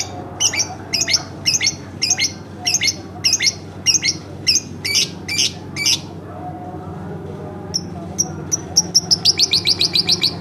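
Pet lovebird calling: a series of sharp, high chirps about two a second, then after a short pause a faster, quicker run of chirps near the end.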